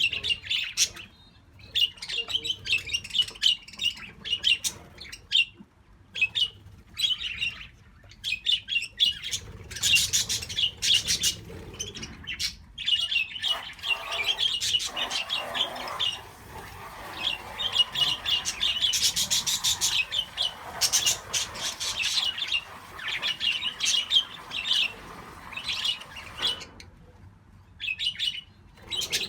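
A flock of budgerigars chirping and chattering almost continuously, with louder bursts of rapid chatter now and then.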